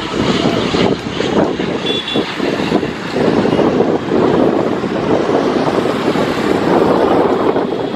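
Jet airliner's engines running: a loud, steady rushing noise with a faint high whine coming through now and then.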